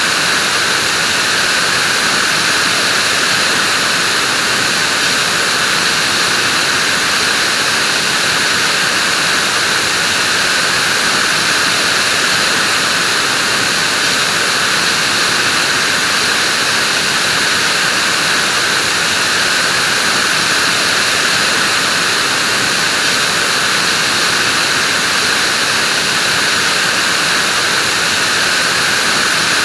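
Vacuum cleaner running at a constant speed: a loud, steady, unchanging rush of air and motor hiss.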